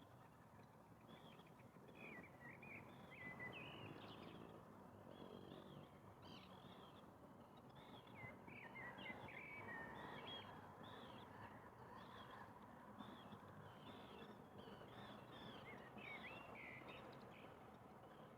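Faint birds calling at a distance, many short chirps in quick succession, over a low steady background rumble.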